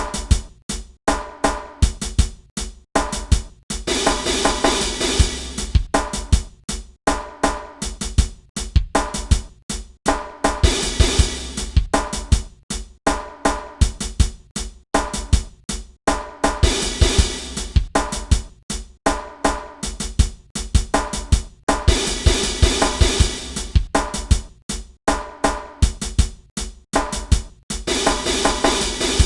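Drum kit playing a repeating hip hop groove of bass drum, snare and hi-hat, with a stretch of cymbal wash for a couple of seconds about every six seconds.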